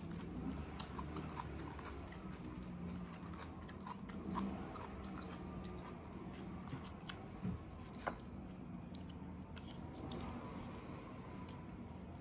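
A person chewing beef from a bulalo soup up close, with soft wet mouth clicks and smacks, over a steady low background hum.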